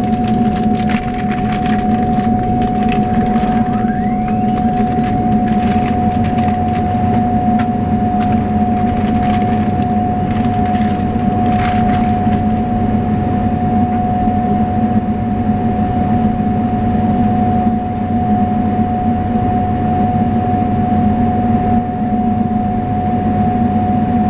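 Steady cabin drone of a Saab 340B turboprop on the ground: a constant whine over a low hum. Scattered clicks and knocks through the first half, stopping about halfway.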